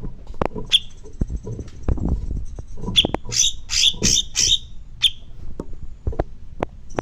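Songbird giving sharp, high chirps, with a quick run of about five calls in the middle and a thin high trill, among many short low knocks and clicks.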